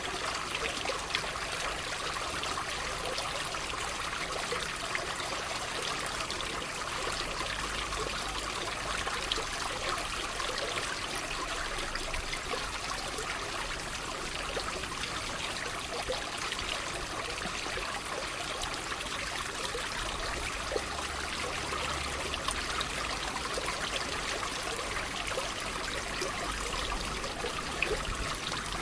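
Small flow of water trickling and splashing steadily, with a fine crackling patter.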